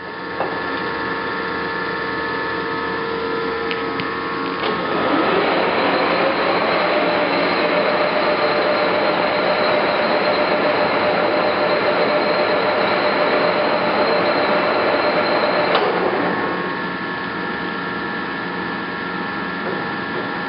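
Clausing Colchester 1760 engine lathe running under power, its geared headstock giving a steady whine. About five seconds in it gets louder and the whine rises, as the spindle is run at a faster speed. Near sixteen seconds it settles back to the lower level.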